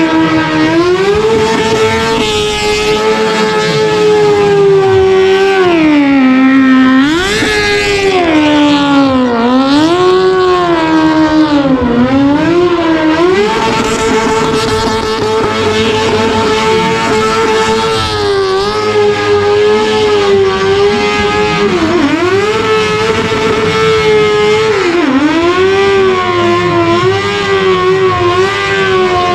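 An engine revving hard at high revs, held up for seconds at a time and repeatedly dropping sharply in pitch before climbing back.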